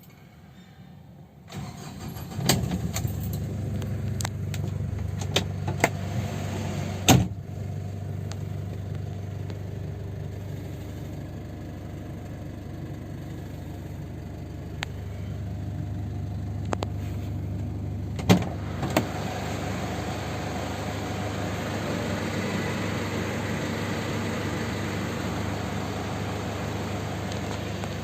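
2002 Ford Ranger Trekker's 12-valve turbo diesel engine starting about two seconds in and settling into a steady idle. Several sharp clicks or knocks sound over it, the loudest about seven and eighteen seconds in.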